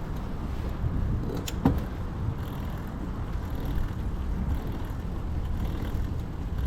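Steady deep rumble of wind and road noise from a moving bicycle ride, with one sharp click about a second and a half in.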